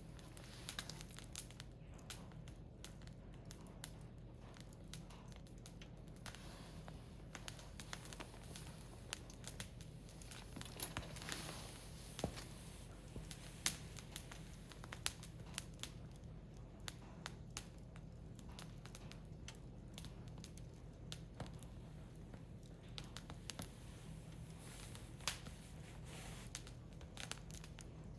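Firewood burning in an open fire, crackling with irregular sharp pops and snaps, and a brief hiss about eleven seconds in.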